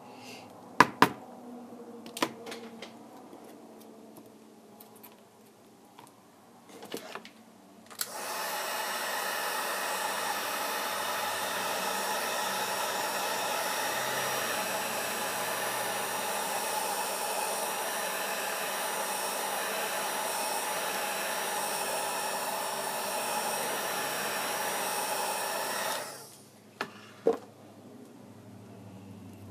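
An electric air blower starts about eight seconds in, runs steadily for about eighteen seconds and then cuts off. It is preceded and followed by a few sharp clicks and taps.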